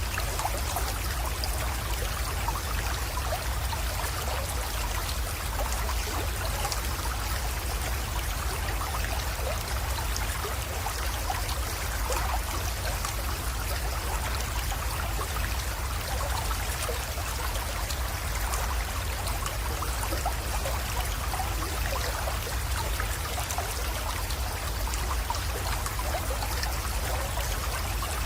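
A small creek trickling and splashing as it flows into a pond: a steady wash of running water with fine splashes, over a low, even rumble.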